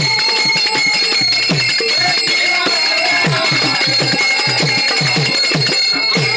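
Devotional group singing of a Marathi abhang, with a hand drum beating a steady rhythm of about two strokes a second and small hand cymbals ringing continuously.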